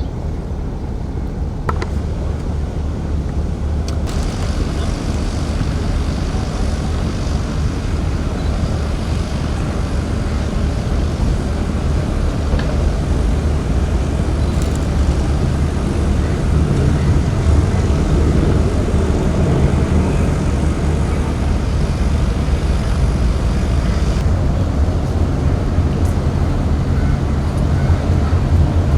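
An engine running steadily with a low drone that slowly grows a little louder.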